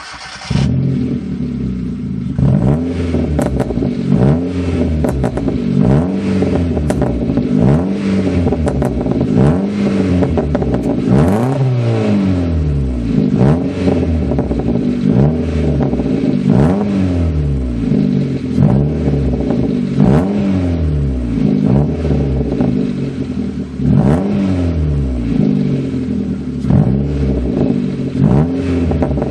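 Hyundai Coupé Tuscani engine heard through its exhaust, starting up and then revved in quick repeated blips, about one every second and a half, with one higher rev about twelve seconds in.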